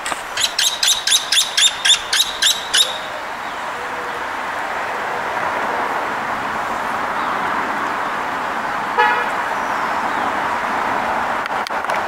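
A bird calling a quick run of about a dozen sharp notes, about four a second, over the first three seconds, followed by steady background noise.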